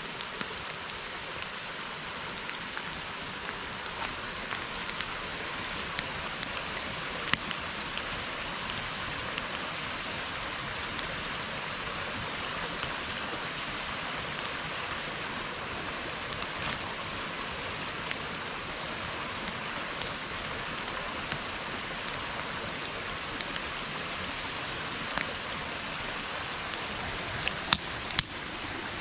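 Wood bonfire burning: a steady hiss with scattered sharp crackles and pops, a few louder pops near the end.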